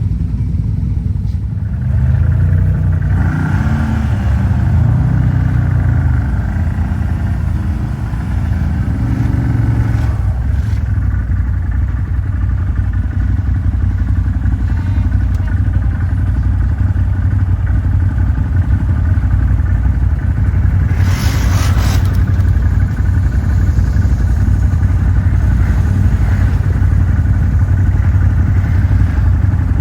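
Quad (ATV) engine running under way, its pitch rising and falling with the throttle in the first ten seconds, then steadier. A short burst of hissing noise comes about twenty-one seconds in.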